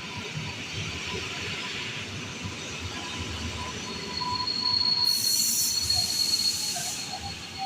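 A train running through a station, its wheels squealing with a thin, high, steady tone over a low rumble. About five seconds in, a loud hiss rises over it for about two seconds.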